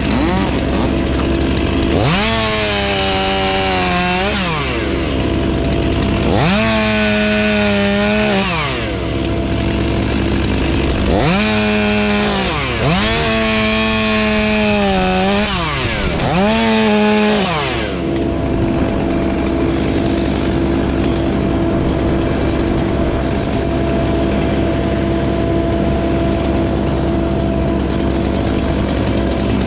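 Chainsaw revved up five times, each burst a second or two long, over a steady engine drone. After about 18 seconds only the steady drone goes on.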